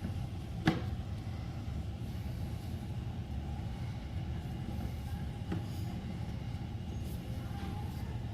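A steady low rumble, with one sharp click about a second in and a few faint ticks after.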